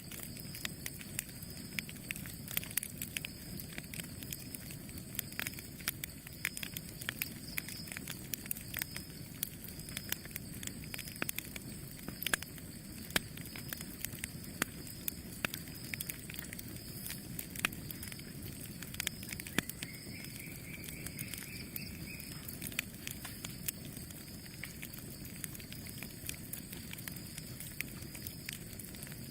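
Campfire burning: wood crackling with frequent irregular sharp pops over a steady low rush of flames.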